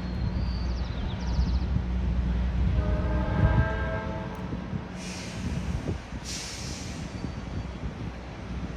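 A train rumbling steadily, with its horn sounding once for about two seconds about three seconds in. Two short hisses follow a little later.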